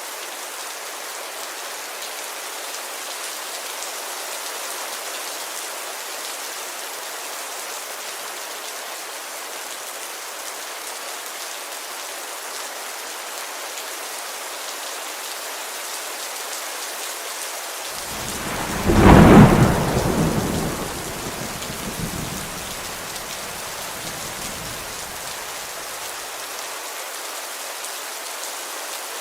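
Steady rain hissing on a window. About two-thirds of the way in, a loud clap of thunder breaks in and rumbles away over several seconds.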